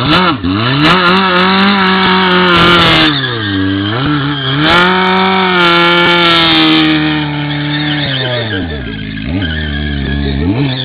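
Yamaha FJ1100's inline-four engine revved hard and held at high revs during a burnout, with tyre squeal. The revs drop and climb again three times: about 4 s in, and again near the end.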